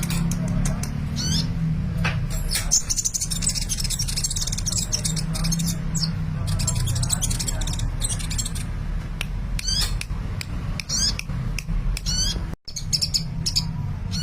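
Sunbird singing energetically: quick high chirps and short wavering trills in rapid bursts, over a steady low hum.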